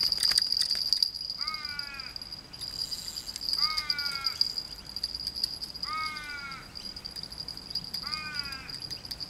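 A bird calling: a drawn-out call repeated four times, about every two seconds, each one bending down in pitch at its end. A steady high insect drone runs underneath, with a few clicks in the first second.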